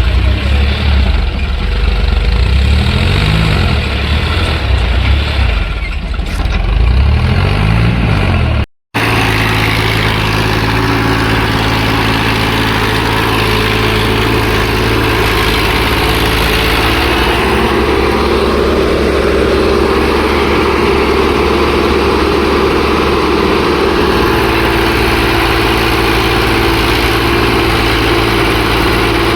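Tractor engine running, its speed wavering over the first several seconds, then running steadily after a brief dropout about nine seconds in.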